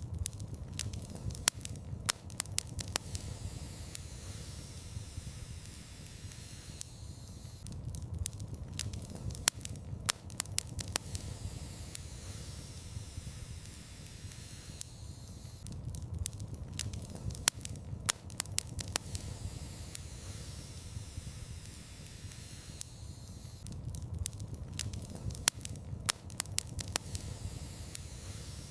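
Wood fire in a fireplace crackling: clusters of sharp pops about every eight seconds over a steady hiss and low rumble.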